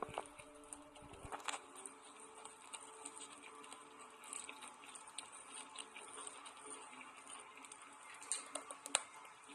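Close-miked soap being bitten and crunched for ASMR: scattered small crackles and crumbling clicks, with a sharper crack about a second and a half in and another near the end.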